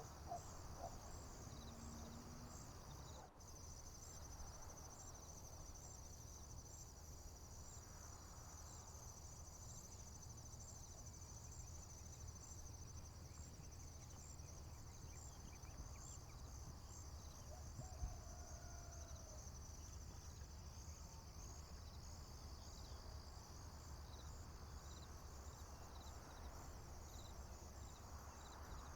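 Crickets chirping in a steady, high-pitched chorus with a fast, even pulse, over a faint low rumble.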